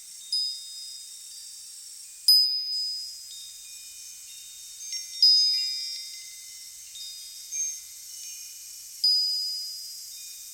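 Wind chimes ringing at irregular moments, about seven strikes, some in quick clusters, each a bright high tone that rings on and fades. They sound over a steady high hiss.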